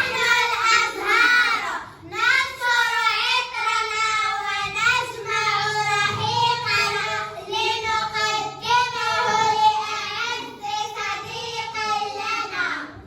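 A child singing a melody in long held notes, with a short pause about two seconds in.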